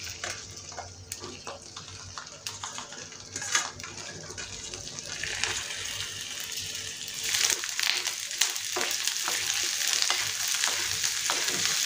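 Chopped okra sizzling in hot oil in a nonstick kadhai, with a few light knocks in the first half as pieces drop into the pan. About seven seconds in the sizzle grows louder and a spatula starts stirring and scraping through the okra.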